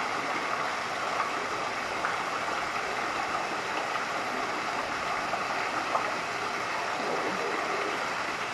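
Steady rush of running water at an even level throughout, with a few faint ticks.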